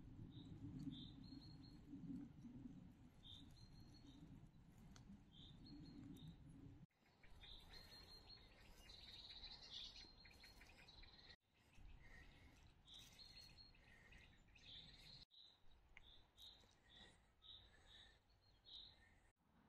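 Faint birdsong: small songbirds giving short, repeated chirps and brief trills. A low rumble runs under it for roughly the first third, and the sound drops out briefly a few times.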